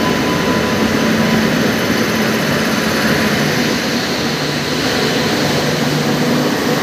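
Indian Railways electric locomotive and its train of coaches rolling into the platform close by, a loud steady rushing rumble of the locomotive and wheels on the rails.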